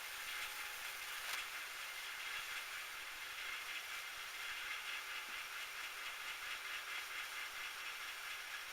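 Metal lathe running steadily, a constant mechanical whir and hiss with a faint, even ripple.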